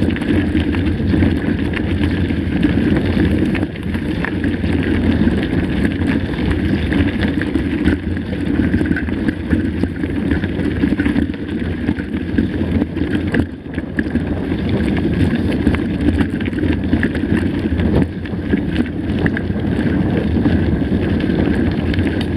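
Wind rushing over the camera microphone as a mountain bike rolls along a trail, a steady loud rumble with short dips.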